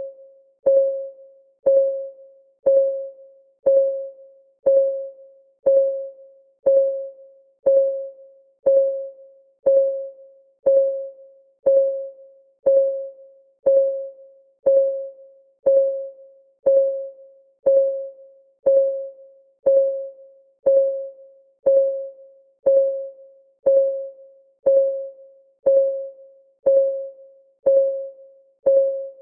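Countdown timer's ticking-clock sound: one tick a second at a perfectly even pace. Each tick is a short ringing tone that dies away quickly.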